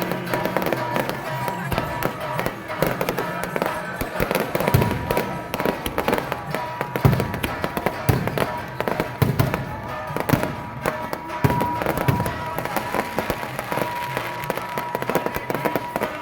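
Dense crackling and popping with occasional heavier pops, over music and voices.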